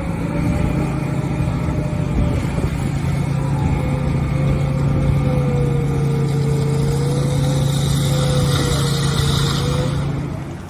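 Old heavy-equipment engine running steadily at one speed, with a faint wavering whine above its low note; it eases off near the end.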